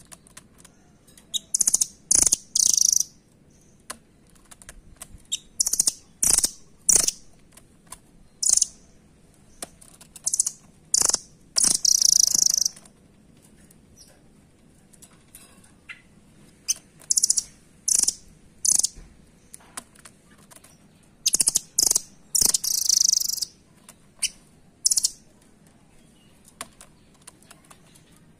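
Velvet-fronted nuthatch giving sharp, very high chipping calls in quick runs of a few notes, with pauses of a second or more between runs, mixed with light clicks and taps.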